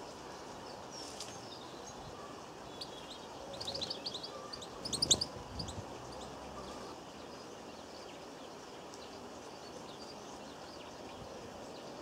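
Small garden birds chirping: a short flurry of quick, high chirps about four to five seconds in, over a steady outdoor background hiss.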